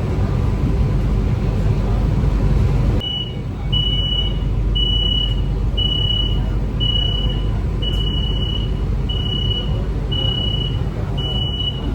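Steady low rumble of an AC electric suburban train. About three seconds in, a high electronic beep starts repeating roughly once a second, like an automatic door warning chime.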